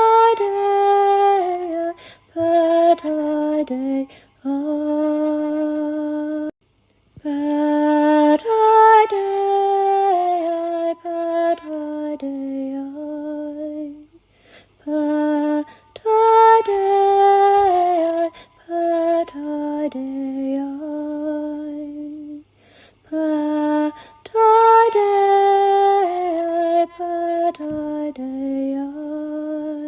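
A solo female voice sings a slow, unaccompanied melody in long held notes, pausing briefly between phrases. A similar phrase comes round about every eight seconds.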